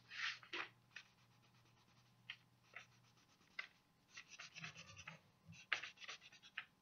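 Faint scratchy strokes of coloring on paper, coming in short clusters with pauses between them.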